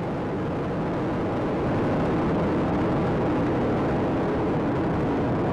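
Space Shuttle Atlantis's solid rocket boosters and three main engines firing during ascent: a steady, dense rumble that swells slightly about two seconds in.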